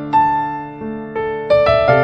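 Electric piano or keyboard playing slow, gentle instrumental music, single notes and chords struck a few times and left to fade.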